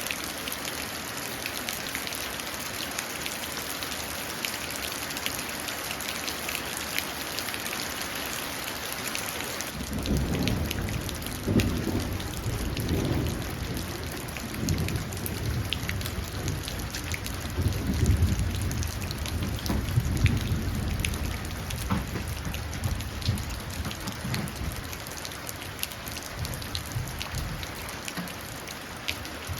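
Steady rain falling and pattering into a puddle. About a third of the way in, thunder begins rolling, a low rumble that swells several times and slowly dies away near the end.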